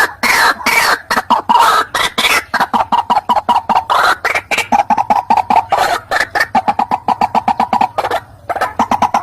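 White-breasted waterhen (ruak-ruak) calling: a few loud, harsh rasping notes, then a fast run of short repeated clucking notes, with a brief pause near the end.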